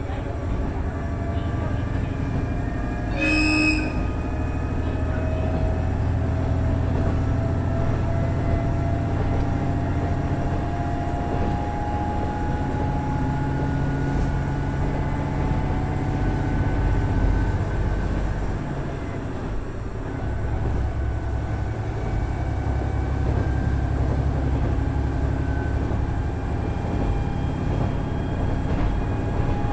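Inside a KiHa 110 series diesel railcar under way: its Cummins DMF14HZA diesel engine and the wheels on the rails run steadily, with a thin whine that climbs slowly in pitch. A short horn blast sounds about three seconds in.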